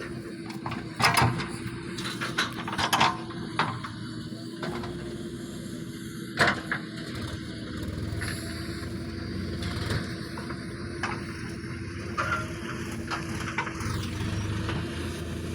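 Diesel engine of earthmoving machinery running steadily under load, with several sharp metallic clanks in the first half, the loudest about a second in and about six seconds in.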